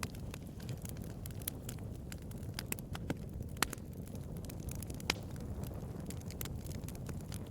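Bonfire burning: a steady low rumble of flames with irregular sharp crackles and pops from the burning wood, two of them louder, a little over a third of the way in and about two-thirds in.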